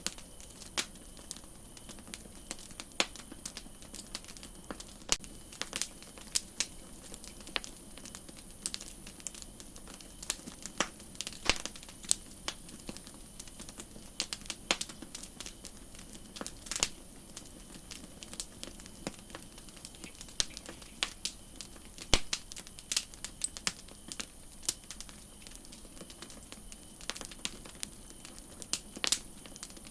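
Campfire crackling: irregular sharp pops and snaps of burning wood over a soft steady hiss.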